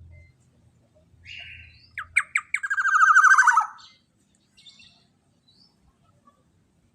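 Black-naped oriole (kepodang) calling: a short harsh note, a few sharp notes, then a loud rapid rattling trill that slides down in pitch and stops after about a second.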